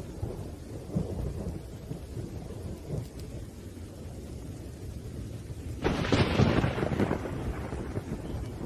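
Thunderstorm: thunder rumbling low under steady rain, then a sudden sharp thunderclap about six seconds in that rolls away over a second or two.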